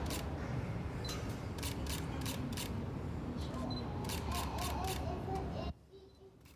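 Camera shutter clicks, a dozen or so in irregular runs, over a steady low rumble of airport and aircraft noise. The sound drops away abruptly near the end.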